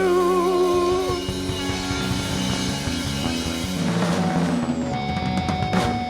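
Live rock band playing the end of a song. The singer's held last note wavers and stops about a second in, then guitar and drums play on, with a final hit near the end.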